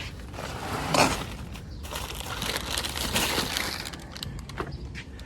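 Packaging being handled and crinkled while coilover kit parts are moved and unpacked: rustling and crackling with a sharper crunch about a second in.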